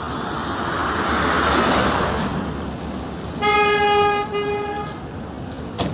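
Road traffic noise swelling as a vehicle goes past, then a vehicle horn honks twice, a longer blast about three and a half seconds in followed at once by a shorter one. A brief knock just before the end.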